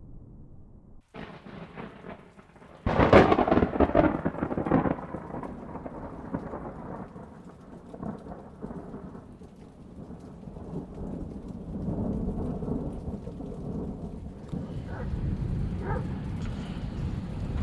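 Thunder: a loud crack about three seconds in that rolls on as a long rumble, with rain falling; the rain's hiss grows near the end.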